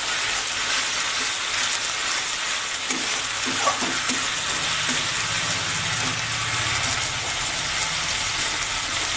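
Sliced onions and ginger-garlic paste sizzling steadily in hot oil in a metal karahi, with a steel spatula scraping and stirring now and then, most around three to four seconds in.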